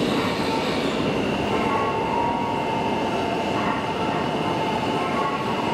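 E5 series Shinkansen cars rolling past along the platform as the train arrives: a steady running noise with faint high tones over it.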